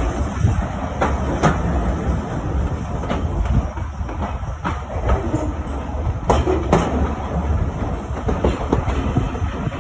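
Heritage railway carriage rolling slowly over jointed track and points, a steady low rumble with about half a dozen irregular sharp wheel clicks over rail joints.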